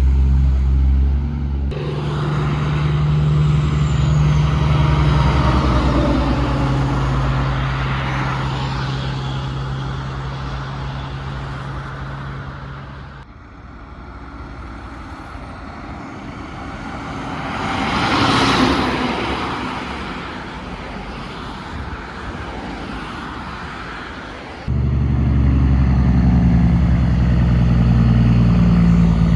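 Trucks on the road in a series of cut-together clips: a truck engine running steadily with a low hum at the start and again near the end, and between them trucks driving past, their noise swelling and fading with the loudest pass about two-thirds of the way in.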